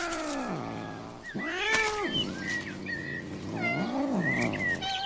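Domestic cat meowing: three drawn-out calls that rise and fall in pitch, with short high chirps between them.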